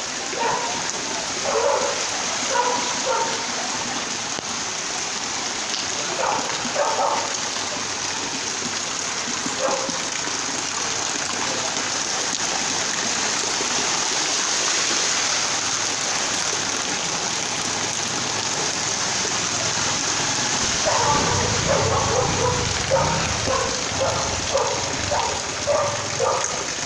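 Heavy rain falling steadily, with short pitched calls in the background: a few in the first seconds and a quick run of them starting a little after twenty seconds in.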